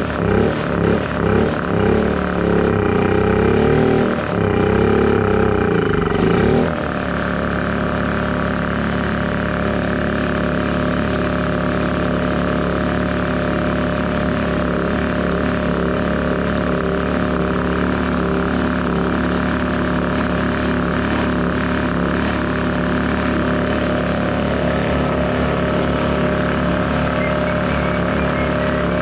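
Honda EU2000i inverter generator's small single-cylinder four-stroke engine running: uneven and pulsing about twice a second at first, then faster and wavering, as it catches on a spray of starter while its vacuum fuel pump primes the carburetor. About seven seconds in it drops suddenly to a lower speed and then runs smoothly and steadily.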